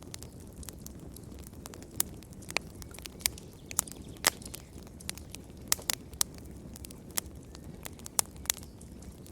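Wood fire crackling in a fireplace: sharp, irregular pops and snaps over a low steady rustle of flames.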